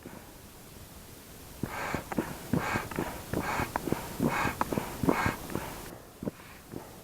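Air pump inflating an inflatable boat: a run of regular puffs of air, one stroke after another, from about a second and a half in until near the end.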